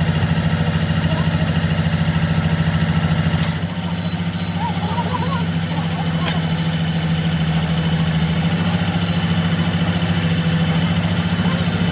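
Large diesel truck engine idling with a steady low throb. Its note and level shift slightly about three and a half seconds in.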